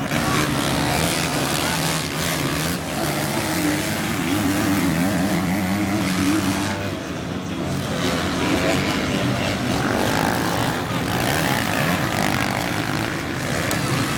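Motocross motorcycle engines revving hard, their pitch rising and falling as the bikes accelerate and shift.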